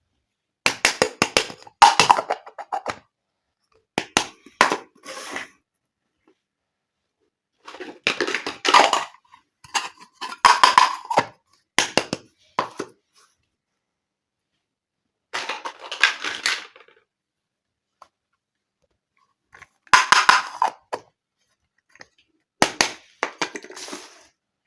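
Small plastic toy kitchen pieces and their packaging handled in six separate bursts of clicks, taps and crinkling, with dead silence between the bursts.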